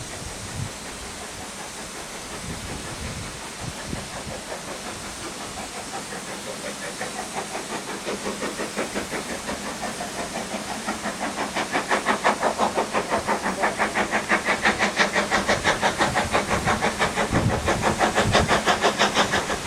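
Steam locomotive working hard, its exhaust chuffing at about four beats a second. The chuffs grow steadily louder as it approaches and are loudest near the end.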